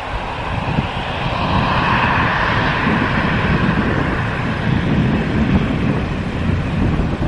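Jet airliner engines running with a steady whine and roar that grows louder about a second and a half in, with wind rumbling across the microphone.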